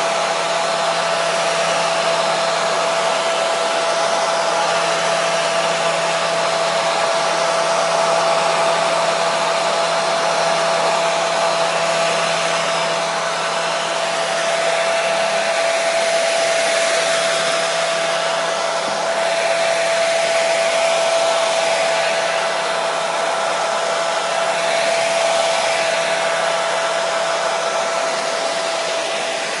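Hair dryer running steadily: an even rushing of air with a steady whine from its motor and fan.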